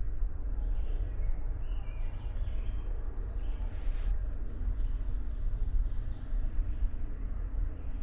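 Songbirds chirping faintly in short phrases, around two seconds in and again near the end, over a steady low rumble on the microphone.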